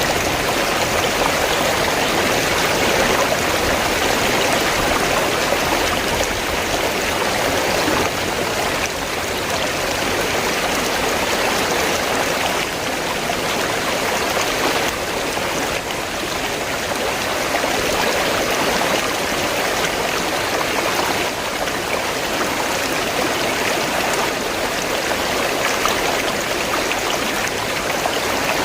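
River water flowing with a steady, even rushing sound.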